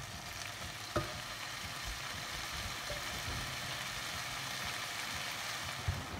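Chicken, leek, onion and peppers sizzling steadily as they fry in a saucepan, with a single knock about a second in.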